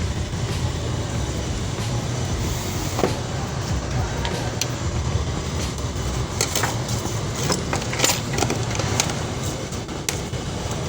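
Scattered sharp clicks and knocks of cables and plugs being handled while an input is hooked up to an amplifier, more of them in the second half, over a steady low rumble.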